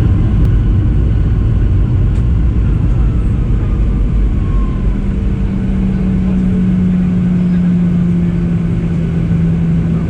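Boeing 737-800 heard from inside the passenger cabin: a steady, loud rumble of the engines and airframe, with a steady hum setting in about halfway through.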